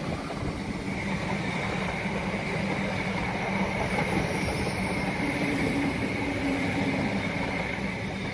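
A train running past on the track: a steady rumble of wheels on rail with a faint high tone over it, easing off near the end as it moves away.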